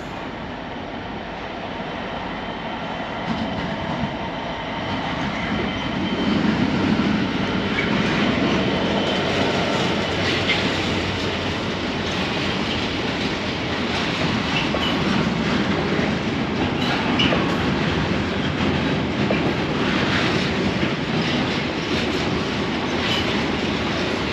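A train running past on the rails, building over the first few seconds and then steady. Its wheels click over rail joints, with a faint high squeal in the first few seconds.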